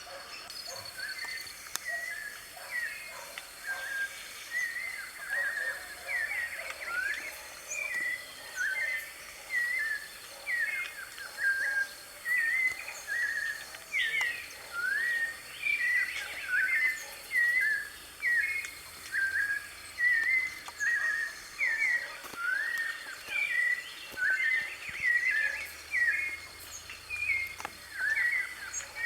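White-necked thrush (sabiá-de-coleira) singing a steady string of short, clear whistled phrases, about one a second, with a faint steady high tone underneath.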